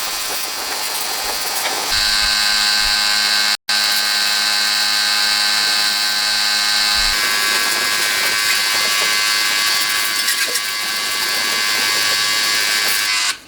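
A small electric power tool's motor running steadily with a whine, its pitch and tone changing abruptly a couple of times.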